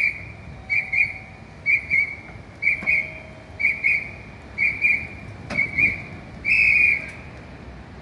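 Firefighter's hand whistle blown in short double pips about once a second, then one longer blast near the end, a rhythmic signal pattern.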